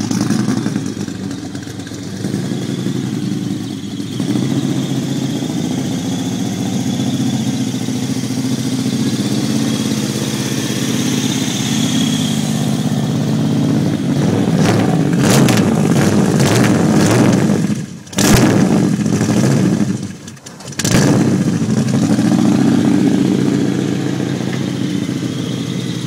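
Impala SS's 383 V8 engine running loud just after its first start-up, idling unevenly, then revved several times in the middle, the sound dropping away sharply twice before it settles back to a steady idle.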